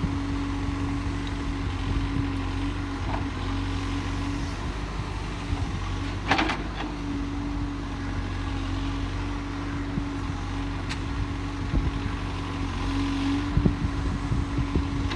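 Case backhoe loader's diesel engine running steadily, with one brief loud clank about six seconds in and a few lighter knocks near the end.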